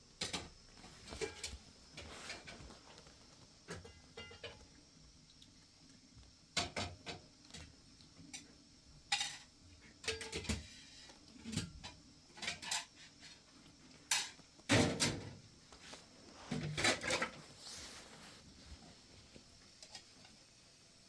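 Irregular knocks and clatters of objects being handled, with a cluster of louder thuds about three-quarters of the way through.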